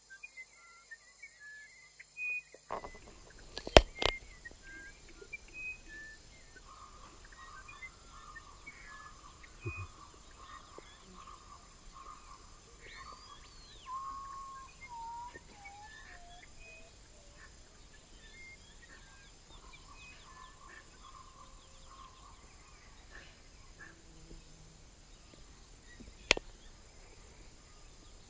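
Amazon rainforest ambience: various birds calling in short chirps and whistles, with a falling series of whistled notes about halfway through, over a steady high-pitched insect drone. A sharp knock sounds near the start and another near the end.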